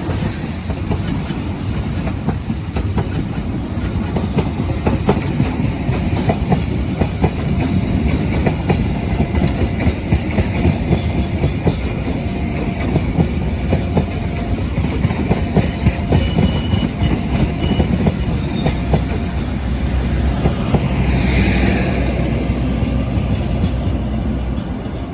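A train running past at close range, a steady loud rumble with rapid clickety-clack of wheels over the rail joints. Near the end comes a brief high whine.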